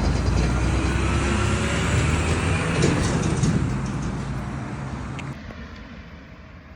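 A vehicle passing close by: loud rushing noise with a steady low engine hum that fades away over the last few seconds.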